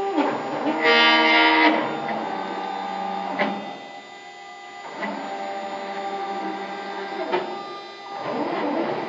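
CNC router stepper motors whining as the axes move, the pitch stepping up and down with each move, with short pauses, a couple of clicks, and sliding pitches near the end.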